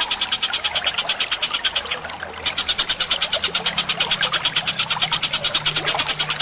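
Bird-call training recording of rapid, evenly spaced sharp chirps, about a dozen a second, with a brief break about two seconds in.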